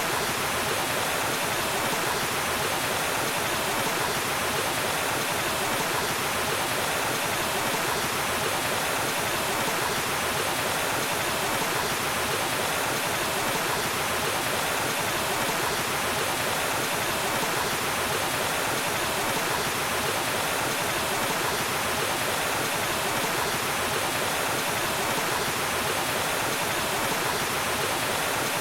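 Waterfall: falling water rushing as a steady, unbroken noise, without any separate splashes or changes.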